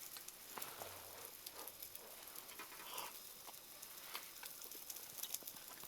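Jingisukan lamb sizzling faintly on a grill pan over a campfire, a steady hiss with scattered small crackles and ticks.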